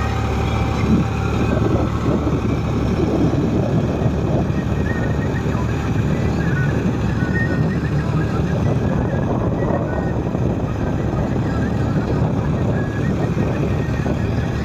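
New Holland 3630 tractor's three-cylinder diesel engine running steadily while pulling a laser land leveller.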